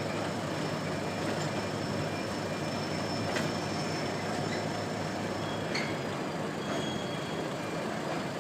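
Freight train wagons rolling past with a steady rumble and thin high wheel squeals that fade about halfway through, broken by a couple of sharp clanks.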